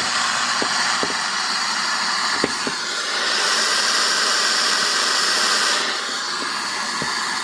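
DuraBrand radio's speaker playing loud static hiss, with no antenna connected so no station comes in. The hiss turns brighter and higher for a few seconds in the middle, then settles back.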